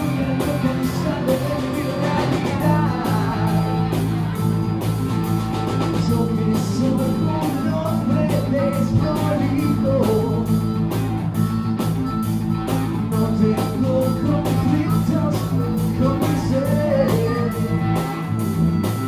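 Live blues-rock band playing: electric guitar, electric bass and drums with an even beat, and a wavering lead melody on top.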